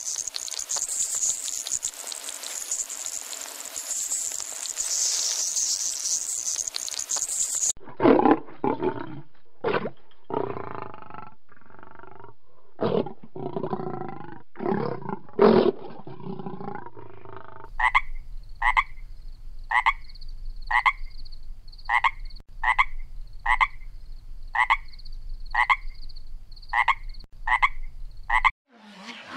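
A steady high-pitched hiss, then lions growling and roaring in a run of loud, uneven calls. Then a frog calls in a regular series of short croaks, nearly two a second.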